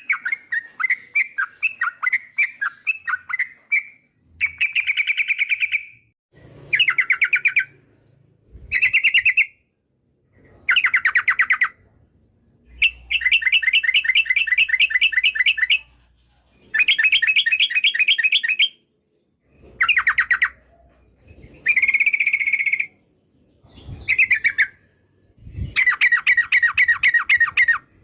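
Yellow-vented bulbul (trucukan) singing: a quick run of short chirps, then about ten rapid trilled phrases, each a second or so long, separated by short pauses.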